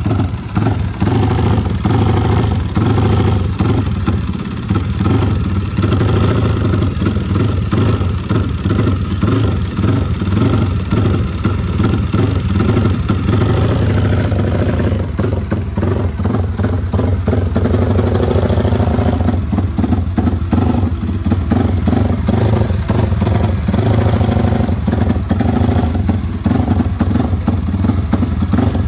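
Yamaha Vixion race-built single-cylinder four-stroke motorcycle engine running loud and steady at low speed. Its tone shifts slightly about halfway through.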